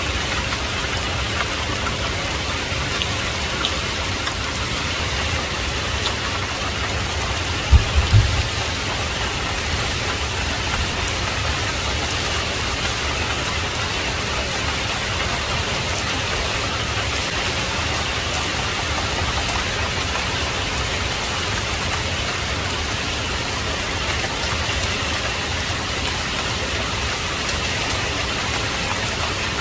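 Heavy rain falling steadily, with a brief low thump about eight seconds in.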